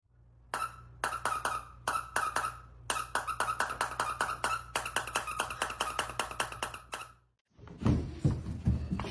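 Rapid, repeated short squeaks, several a second, over a low steady hum. They stop about seven seconds in, and after a brief gap low thumping sounds begin.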